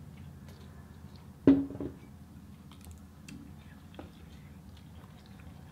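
Quiet eating sounds: chewing and small clicks as food is handled, with one short louder sound about a second and a half in.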